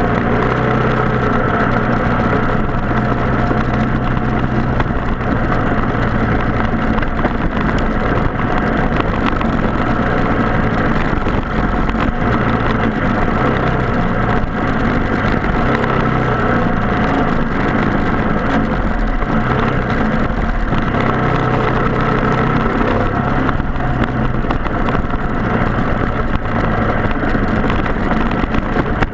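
Race kart's Briggs & Stratton Animal single-cylinder four-stroke engine running steadily, its pitch holding mostly even throughout.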